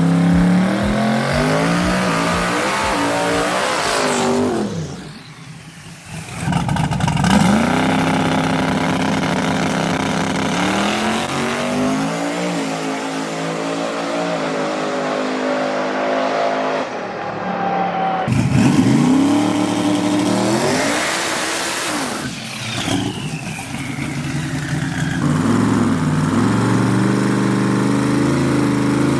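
A V8 drag truck's engine at full throttle down the strip, its pitch climbing and dropping back again and again as it runs through the gears. There are abrupt breaks between several separate runs.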